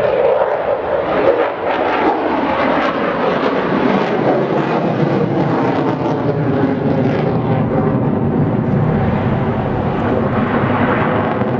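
Military airplane's engine heard loud in flight, a dense steady noise that drops lower in pitch about four to five seconds in.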